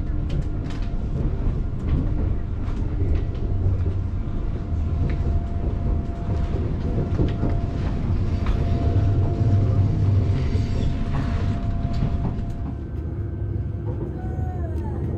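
Steady low rumble of a China Railway High-speed train running, heard inside a passenger car, with a faint steady hum over it. The rumble swells for a few seconds around the middle.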